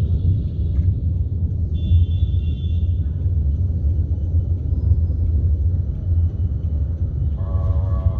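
Steady low rumble of a vehicle on the move, heard from on board. About two seconds in a brief high tone sounds for about a second, and near the end a steadier tone with several pitches starts.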